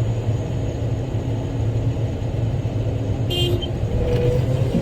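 Bell articulated dump truck's diesel engine running with a steady low rumble, heard inside the cab, with a brief high tone about three seconds in.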